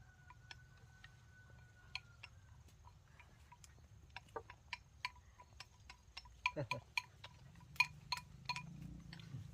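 Eating utensils clinking against bowls: a string of light, ringing clicks, sparse at first and coming faster after about four seconds. A brief low falling sound comes about two-thirds of the way through.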